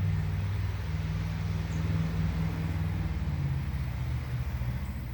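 Steady low hum of a vehicle's engine and road noise, as heard from inside a moving car, with a slight shift in pitch about three and a half seconds in.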